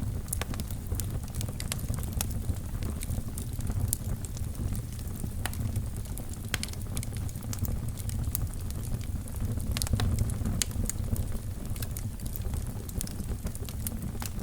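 Wood fire burning in a fireplace: a steady low rumble of the flames with irregular crackles and sharp pops throughout.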